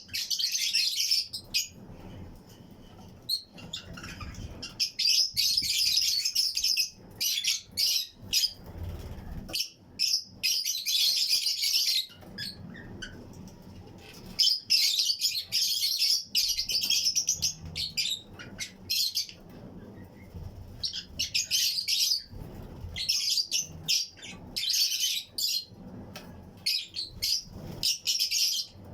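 A colony of Fischer's and lutino lovebirds chirping, high-pitched and shrill, in busy bouts of a second or two with short pauses between.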